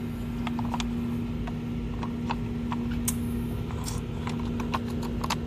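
Scattered light clicks and taps of tools and parts being handled in a car's engine bay, over a steady low hum.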